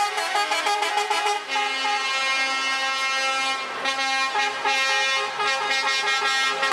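Truck air horns sounding in several overlapping tones that change pitch, with a quick run of short notes at first and then longer held notes.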